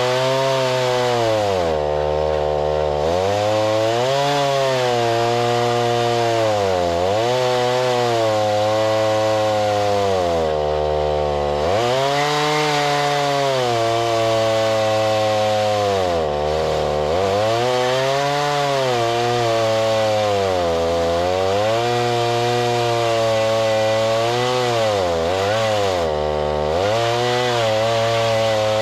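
Gas-engine saw cutting through a log to mill lumber, running loud and steady under load. The engine's pitch sags and recovers every couple of seconds as the cut bogs it down.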